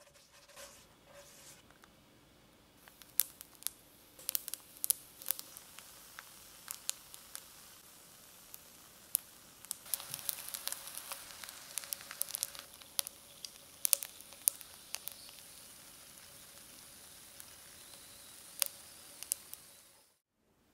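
Rice paper rolls shallow-frying in oil in a nonstick pan: a steady high sizzle with frequent sharp pops and crackles, busiest about halfway through, cutting off suddenly near the end. In the first couple of seconds, a faint scraping of a silicone brush spreading oil over the pan.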